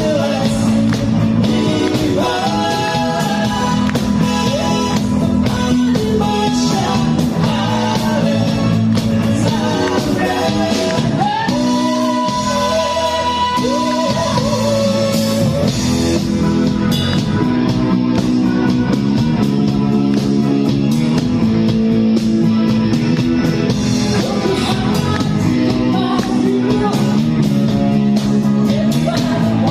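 A rock-style song: a singer's melody over a band with guitar and a steady drum beat.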